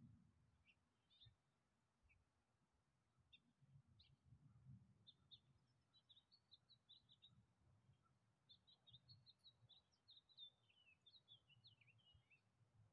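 Faint birdsong: short high chirps, scattered at first, then two quick chattering runs in the middle and near the end, over a faint low rumble.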